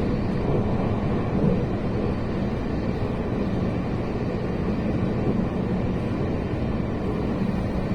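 Steady rumble of a passenger train running between stations, heard from inside the carriage.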